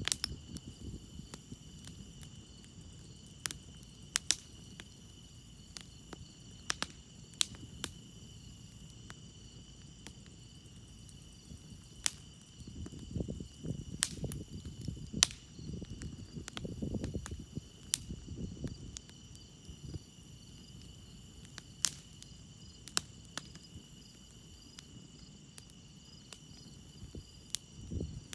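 Campfire crackling with irregular sharp pops, over a steady chorus of chirping crickets. A low rumble swells for several seconds in the middle.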